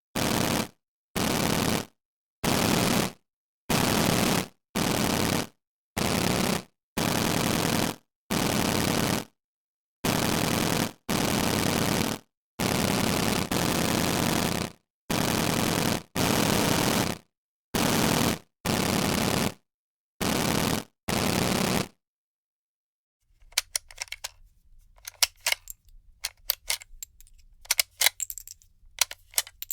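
Bursts of automatic gunfire, about eighteen short bursts of up to a second and a half each, separated by short silences. A couple of seconds after the last burst, a quieter run of sharp irregular clicks begins over a faint low hum.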